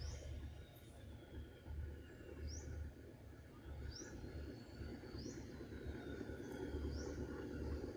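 A bird outdoors repeating a short, high, rising chirp about once every second and a half over a faint outdoor background. A low rumble grows louder toward the end.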